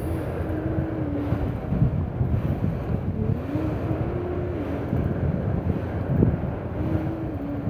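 Freight train of autorack car carriers rolling past: a steady rumble of wheels on rail with scattered clunks and a wavering low whine coming and going, with wind buffeting the microphone.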